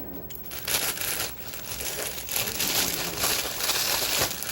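Plastic bread bag crinkling and rustling as it is handled, starting about a second in.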